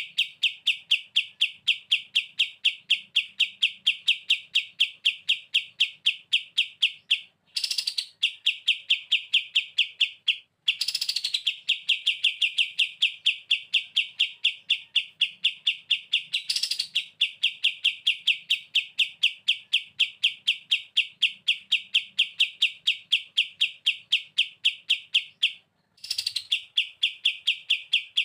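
Kapas tembak bulbul singing in the 'bren' style: long, machine-gun-like runs of fast repeated high notes. Four times the song breaks off briefly, and each new run starts with a higher swept note.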